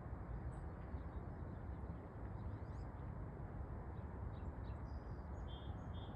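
Steady low outdoor background noise, with faint short high chirps of small birds scattered through it and a few more near the end.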